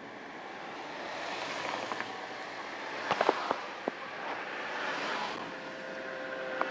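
Street traffic passing, an even rush of tyre and road noise that swells and fades, with a cluster of sharp clicks about three seconds in and a steady hum coming in near the end.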